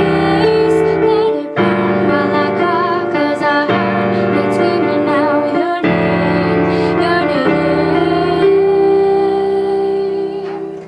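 A woman singing a pop ballad to piano accompaniment, with chords changing every two seconds or so; the music fades out near the end.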